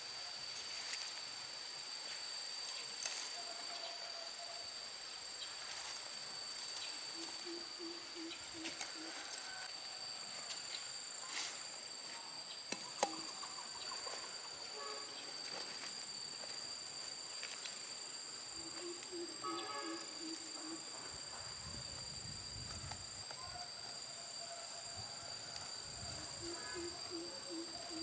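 Rural outdoor ambience: a steady high-pitched insect drone, with a few short calls of quick pulses now and then and occasional light clicks.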